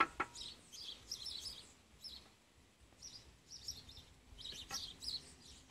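Birds chirping repeatedly in short calls, with a couple of sharp knocks right at the start.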